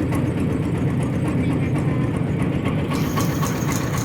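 A vehicle running steadily, a low, even rumble.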